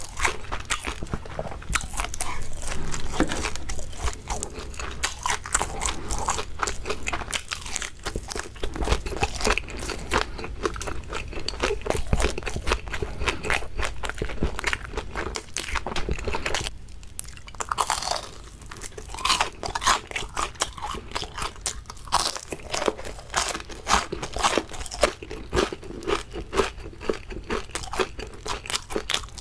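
Close-miked crunching and chewing of crispy fried shrimp, with dense crackles from repeated bites and a short lull about two-thirds of the way through.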